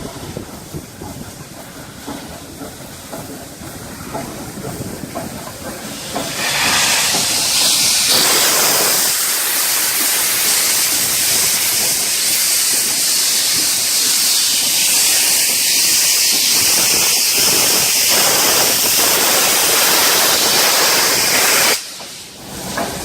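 Steam locomotive venting steam: a loud, steady hiss starts about six seconds in, holds for about fifteen seconds and cuts off suddenly near the end, with quieter background noise before it.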